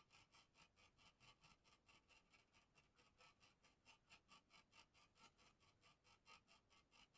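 Faint, fast, even scratching strokes, about five or six a second, of a bird cage's wooden or bamboo parts being smoothed by hand sanding.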